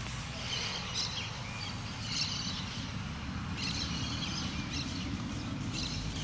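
Birds chirping in short bouts every second or two over a steady low rumble.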